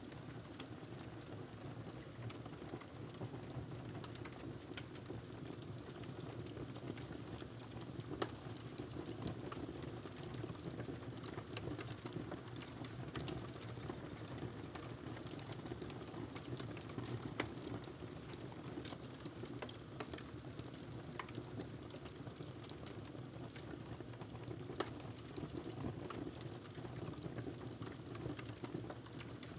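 Wood fire crackling in a fireplace: a steady low rush with frequent small snaps and pops, and a few louder pops scattered throughout.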